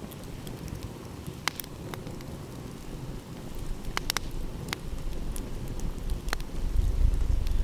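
Wood fire crackling, with a handful of sharp pops scattered through it, over a steady low rumble that grows louder near the end.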